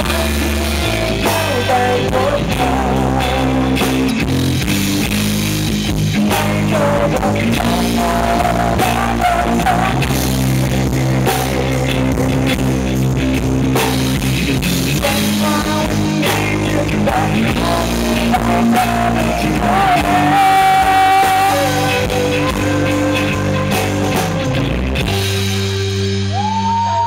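A live rock band plays an instrumental passage with drums, bass and guitars under a wavering, sustained lead melody line. The upper part of the sound thins out near the end.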